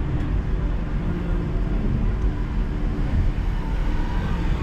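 Steady rumble of a car's road and engine noise while driving, even throughout with no sharp bangs.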